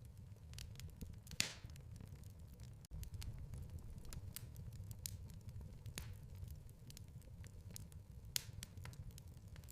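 Wood fire crackling in a fireplace: scattered small crackles and a few louder pops over a low, steady rumble of the flames. The sound cuts out for an instant about three seconds in.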